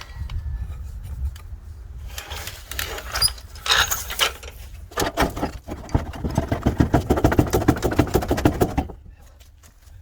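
Rapid mechanical rattling from a tool working on the tow truck's bolts. It starts and stops in short bursts, then runs hardest from about halfway and stops suddenly near the end, over a low steady rumble.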